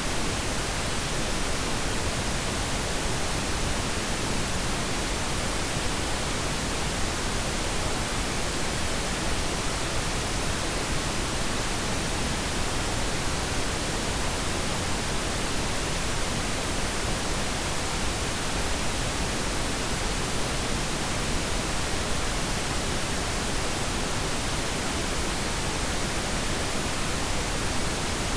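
Pink noise: a steady, even hiss spread across all pitches, softer and fuller than white noise, with no change throughout.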